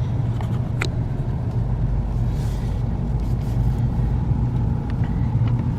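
Car engine running with a steady low rumble as the car creeps forward, heard from inside the cabin.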